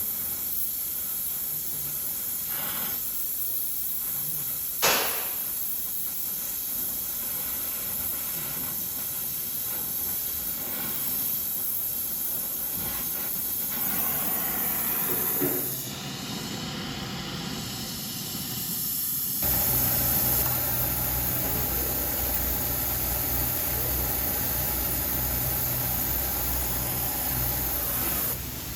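A steady hiss, with a single sharp click about five seconds in; about two-thirds of the way through, a low steady hum joins it.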